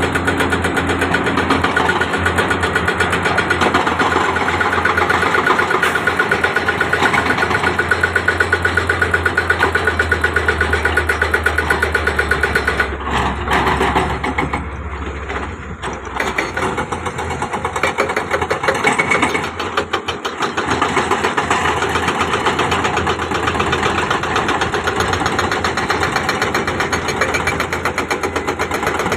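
Diesel engine of heavy construction machinery running steadily with a fast, even pulse. There is a short dip in level a little before the middle, and a low hum that drops away soon after.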